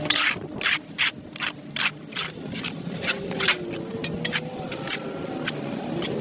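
Repeated scraping strokes on a dirty sidewalk, about two to three a second, strongest in the first two seconds and growing sparser after.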